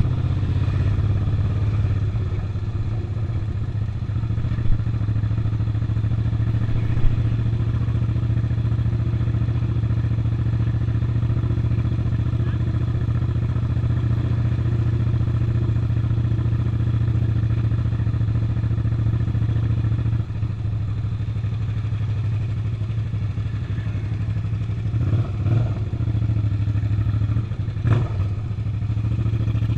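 Suzuki SV650's 645 cc V-twin engine running steadily at an even pitch while riding, with a few brief knocks scattered through, most of them near the end.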